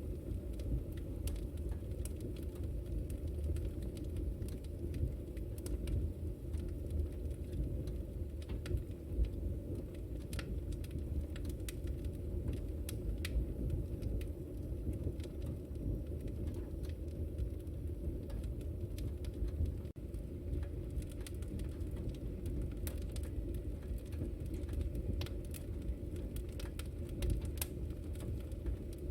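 Wood fire in a fireplace crackling: frequent small sharp pops and snaps scattered over a steady low rumble of the flames.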